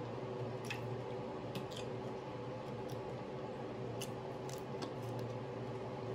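Chewing a crispy pan-fried beef pot sticker: a few short, sharp crunches about a second in and again around four to five seconds in, over a steady low hum.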